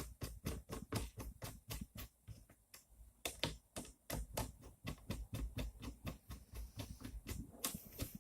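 A quick, fairly regular run of small clicks, about five a second, as screws are driven by hand into the acrylic frame of a 3D printer kit.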